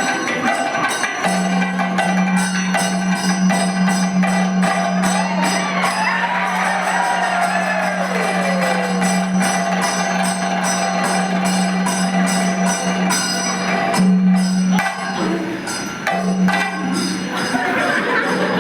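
Kathakali accompaniment: fast, continuous metallic cymbal strikes with drumming over a steady low drone, and a singer's voice sliding in pitch through the middle and again near the end.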